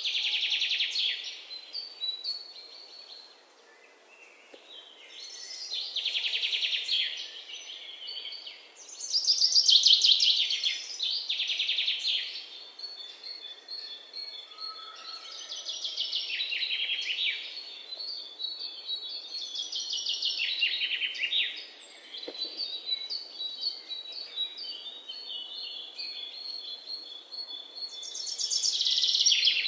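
Small birds chirping and trilling, a quick high trill every few seconds, the loudest about a third of the way in.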